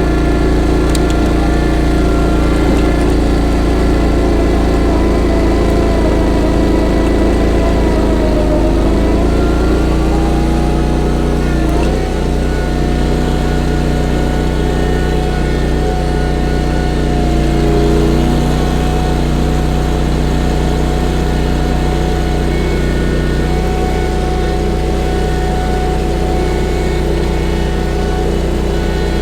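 Honda GX690 V-twin gasoline engine of a stand-on mini skid steer running steadily near full throttle. Its pitch sags briefly about a third of the way through, then recovers and holds.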